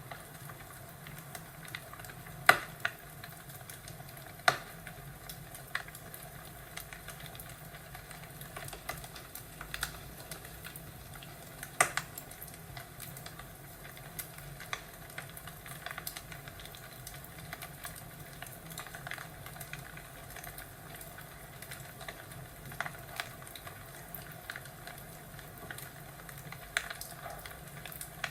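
Fireplace crackling: a steady soft hiss with irregular sharp pops and snaps. The biggest pops come about two and a half, four and a half, and twelve seconds in.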